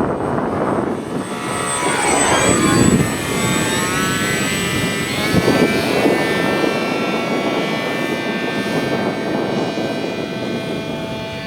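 Electric motor and propeller of an RC scale model of the R.M.-12 canard airplane, a whine in flight. Its pitch glides about two to three seconds in, then holds steadier.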